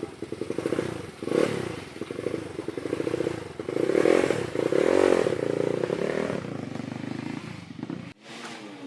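Motocross bike engine running in the paddock, its revs rising and falling, loudest and revved about four to five seconds in.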